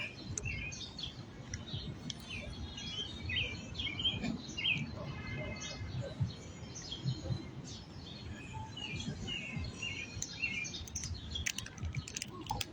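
Several small birds chirping and twittering, with many short calls throughout, over a low rumble.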